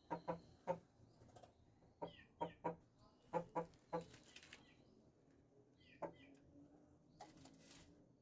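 Parrot-beak aseel chickens clucking: short low clucks in quick runs of two or three, then a single cluck about six seconds in. Faint small-bird chirps sound above them, and there is a brief rustle near the end.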